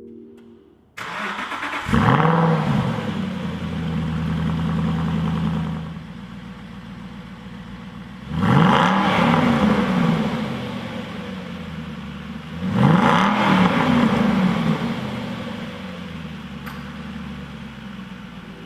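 Aston Martin Vantage V8 engine cold-starting: it catches with a quick flare of revs, holds a high fast idle for a few seconds, then settles to a lower idle. The throttle is blipped twice, the revs rising and falling sharply each time, once about halfway through and again a few seconds later.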